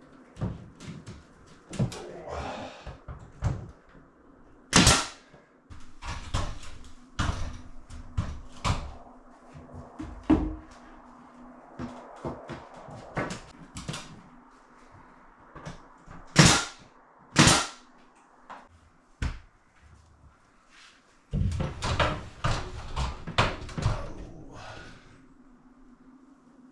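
Knocking and clattering of wooden ceiling trim boards being fitted and fastened, with several sharp loud cracks: one about five seconds in and two close together later on. A busier run of knocks comes near the end, over a faint steady hum.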